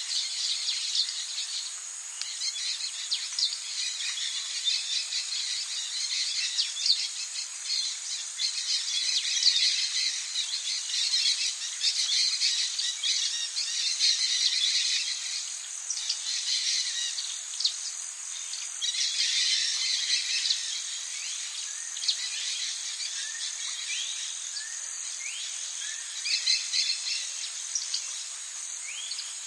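Tropical forest ambience: a steady high insect drone under many overlapping bird chirps and calls. A run of short rising whistled calls comes near the end.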